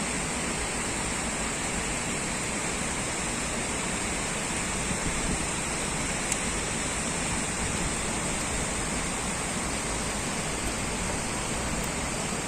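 Heavy rain pouring steadily, an even, unbroken rush of noise.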